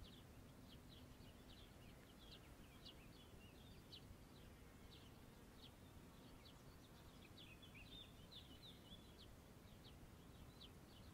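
Very faint birdsong: short, high chirps scattered irregularly throughout, over a low steady hiss of open-air ambience.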